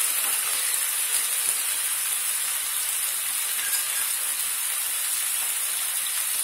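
Minced meat and onions frying in oil in a non-stick pan, a steady sizzling hiss.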